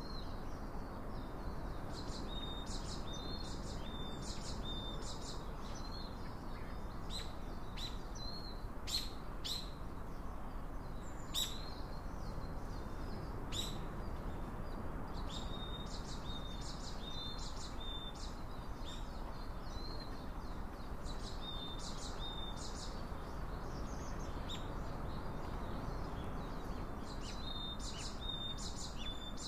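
Small birds chirping in short repeated phrases over a steady background hiss, with a few sharp clicks in the middle.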